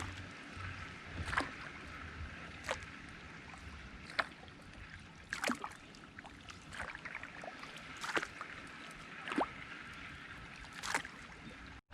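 Kayak paddle blades dipping into calm water in a steady rhythm, a short splash and drip about every second and a half, over a faint steady hiss.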